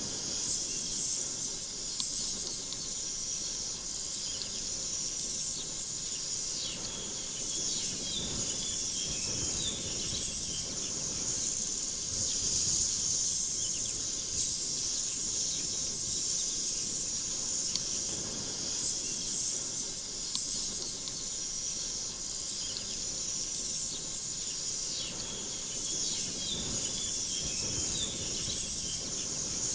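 Insects chirping in a steady, shrill, pulsing chorus, over a faint low background noise.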